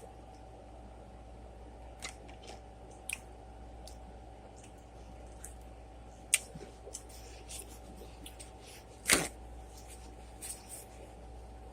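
Quiet eating sounds: scattered small clicks and crunches of a mouthful being chewed, with a sharp click about six seconds in and one louder crunch about nine seconds in.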